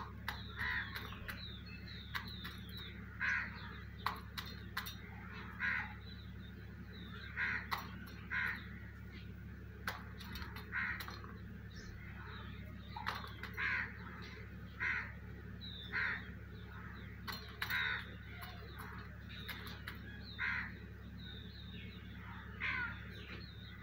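Harsh, caw-like bird calls, each short and repeated every one to two seconds, often in pairs, with fainter high chirps between them.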